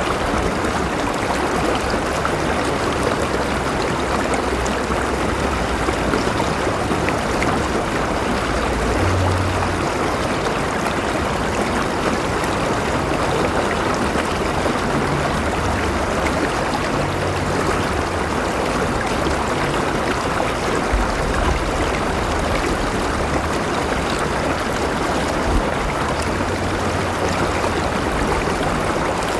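River water flowing steadily, a continuous rushing and babbling with a faint low rumble underneath.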